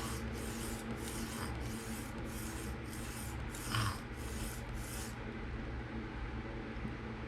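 PM60 steel knife blade stroked across a 600-grit Atoma diamond plate in freehand sharpening: light, even rasping strokes at about two a second, refining the burr and bevel. One stroke near the middle is louder, and the strokes stop about five seconds in.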